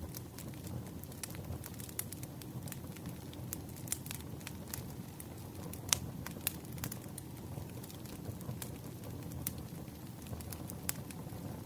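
Wood fire crackling: a steady low rumble with irregular sharp pops and snaps, one louder pop about six seconds in.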